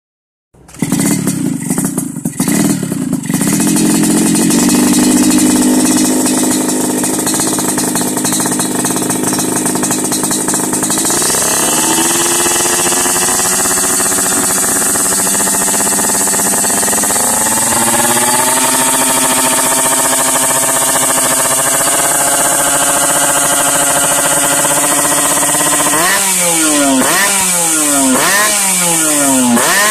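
Yamaha RX-King two-stroke single-cylinder motorcycle engine breathing through an aftermarket underbelly ('kolong') exhaust: it starts up unevenly, settles into a steady run, is held at higher revs in two steps, then is blipped on the throttle several times in quick succession near the end.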